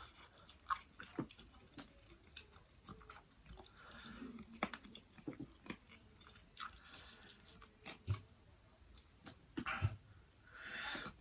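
Faint close-up mouth sounds from chewing food, with scattered small wet clicks. Near the end comes a short breathy rush of noise.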